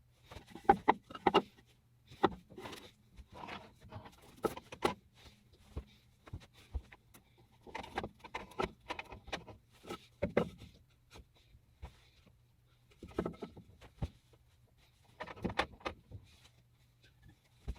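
Irregular knocks and clanks, with some light rattling, as tools or parts are handled, over a steady low hum. The loudest knocks come about a second in.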